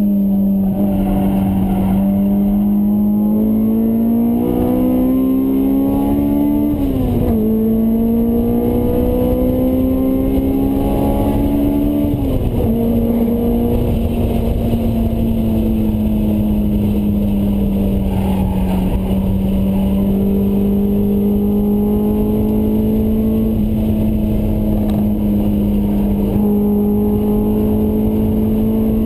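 Honda S2000's four-cylinder engine through a Mugen exhaust, driven hard on track and heard from inside the cabin. The engine note climbs in pitch, drops sharply about seven seconds in and again about twelve seconds in, then holds fairly steady for the rest, over constant road and wind noise.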